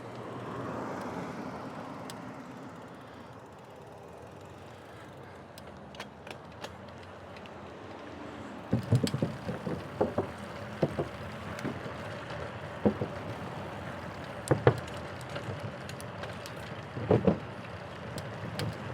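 Giant Fastroad SL 2 bicycle being ridden, with a steady hiss of tyre and wind noise. From about halfway through come irregular knocks and thumps.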